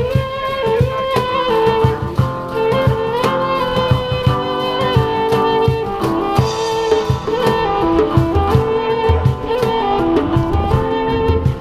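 A live band playing music: a held, gliding lead melody over a steady drum beat.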